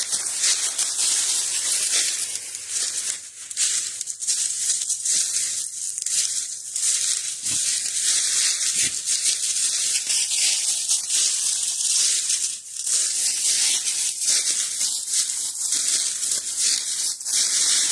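Footsteps crunching and rustling through dry fallen leaves, a continuous crackle with irregular sharper crunches.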